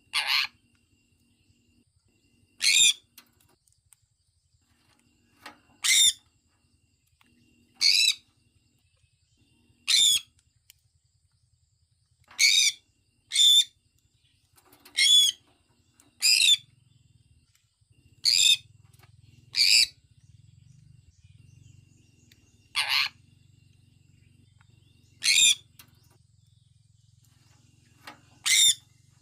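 Sun conure calling: about fourteen short, high-pitched calls, one every two to three seconds, sometimes two close together.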